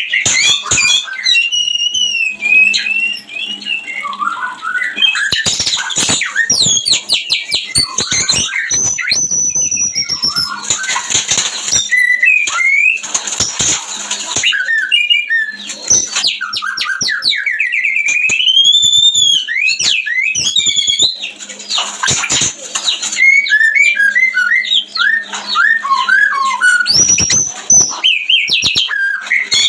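White-rumped shama (murai batu) giving its breeding-season song: a loud, unbroken run of clear whistles that slide up and down and quick trilled phrases, broken by several harsh rasping notes.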